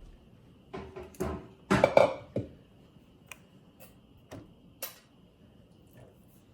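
Kitchen clatter as seasoned raw chicken wings and a utensil knock against a cooking sheet while the wings are spread out: a quick run of knocks and scrapes about one to two and a half seconds in, the loudest part, then a few sharp single clicks. A faint steady high whine runs underneath.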